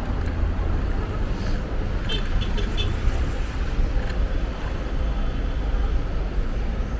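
Steady wind rumble on the microphone with city traffic and road noise while riding a bicycle, and a few brief high ticks a little over two seconds in.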